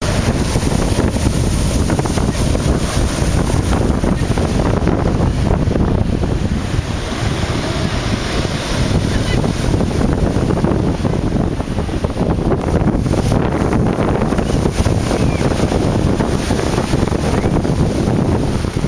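Stormy sea surf crashing and rushing without a break, mixed with strong wind buffeting the microphone.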